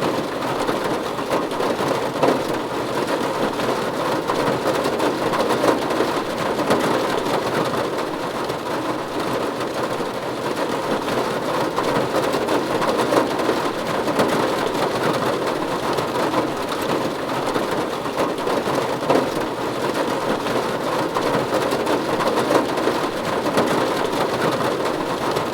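Steady rain falling on a roof, an even patter with a few louder drops here and there.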